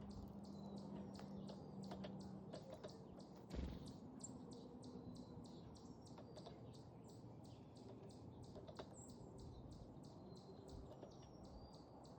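Faint backyard bird chirps over a steady run of soft high ticks, about four a second, with one low thump just before four seconds in.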